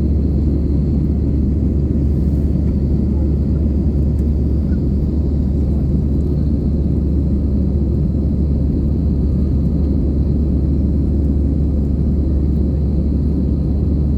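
Cabin noise of an EasyJet jet airliner in flight: a steady, low rumble of engines and airflow.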